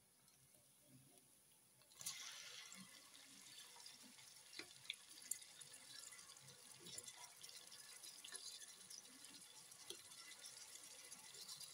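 Faint sizzle of onion and ginger-garlic paste frying in oil in a pot. About two seconds in, chopped tomatoes go into the hot oil, and a louder sizzle with scattered small crackles starts and keeps on.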